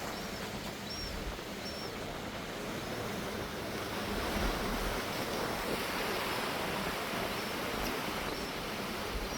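Steady rushing of wind and water heard from a cruise boat on the fjord, swelling a little in the middle, over a faint low hum. A few faint high chirps sound in the first two seconds.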